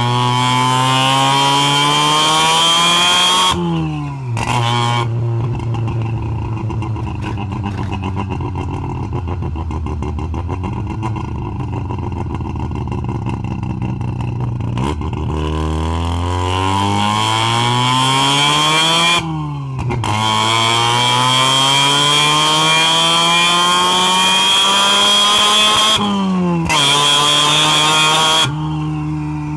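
Half-bridgeported Mazda 12A two-rotor rotary engine accelerating hard. It rises steeply in pitch and drops sharply at each gear change, four times, with a steadier, lighter-load stretch between about five and fifteen seconds in.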